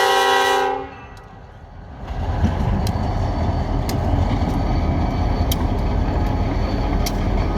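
Diesel freight locomotive's horn chord cutting off just under a second in, then after a short lull the loud low rumble of EMD locomotives ELS 402 and 502 and their loaded log cars rolling past close by, with a few sharp clicks from the wheels.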